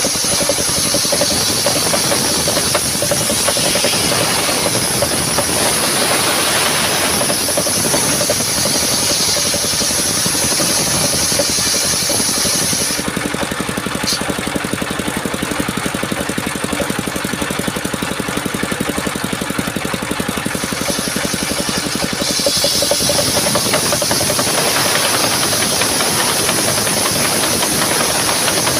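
Engine-driven portable sawmill running steadily, its blade sawing a coconut-palm trunk with a high hiss. The hiss drops away for several seconds in the middle while the engine keeps running, then comes back.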